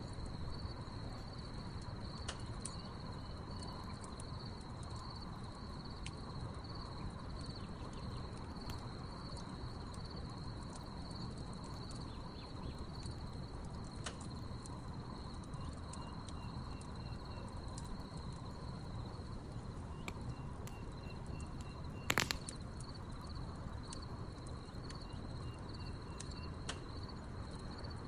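Crickets trill steadily over a low rumble from a wood fire whose burning logs crackle with scattered small pops. One sharper, louder pop comes about three-quarters of the way through, and a few short pulsed chirps sound now and then under the cricket trill.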